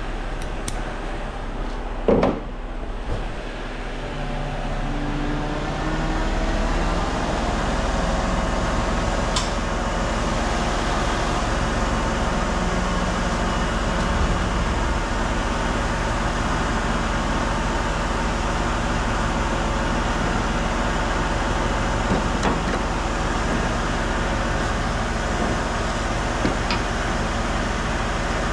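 Heavy truck engine running steadily, picking up about five seconds in, with a single sharp knock about two seconds in.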